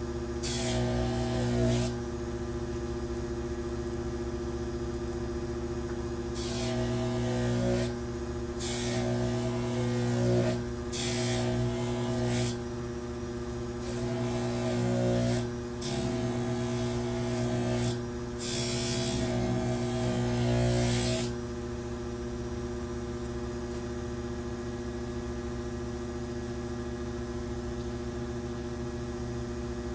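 Polishing machine motor humming steadily while the outside of a folding knife is pressed against the spinning wheel in about seven short passes. Each pass adds a hissing rub and a wavering tone. The passes stop about two-thirds of the way through, and the motor keeps running alone.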